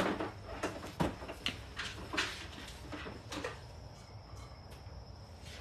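Scattered knocks and clatters of things being handled and set down, about half a dozen in the first three and a half seconds, then quieter.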